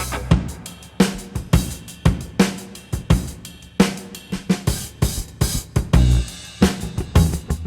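Drum-led music played back through Pioneer TS-R6951S 6x9-inch three-way car speakers in a sound test: a steady beat of kick, snare and hi-hat with cymbals. A deep bass line drops out for a stretch and comes back about six seconds in.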